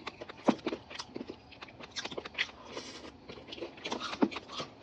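Close-miked eating: biting and chewing, heard as a run of irregular crunches and mouth clicks.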